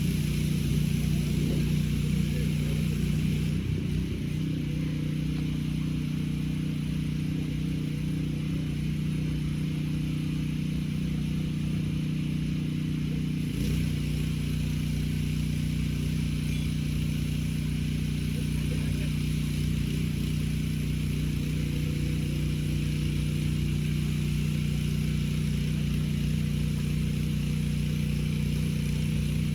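A portable generator's engine running at a steady pitch, powering a pressure washer, with a second varying engine sound over it for about the first half.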